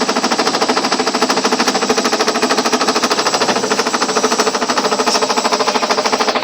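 Ariston washing machine spinning a load with a rapid, even knocking from inside the drum, about ten knocks a second. The machine stands still and does not jump; the knock comes from inside it, a fault the owner says should not be there.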